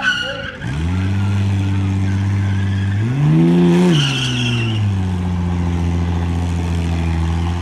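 Holden VT Commodore's V6 engine held at high revs through a burnout, with the rear tyres spinning. The revs dip just before a second in, climb briefly around three seconds in and settle back about five seconds in.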